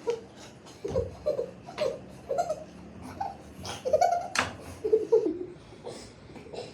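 A person laughing in short bursts, with a few sharp clicks in between.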